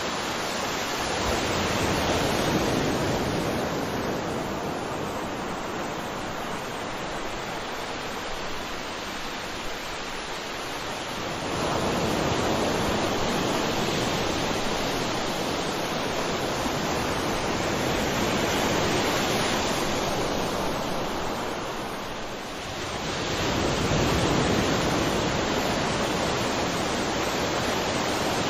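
Sea waves breaking and washing up on a shore, a continuous surf noise that swells with each new wave about every ten seconds.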